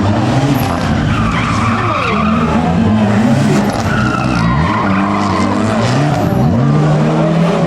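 Rally car engine revving hard, its pitch climbing and dropping repeatedly as it changes gear, with the tyres skidding as the car slides through the stage.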